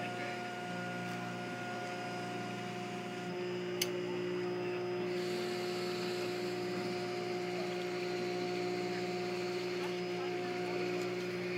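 Small fishing boat's engine running steadily, a constant drone, with one sharp click about four seconds in.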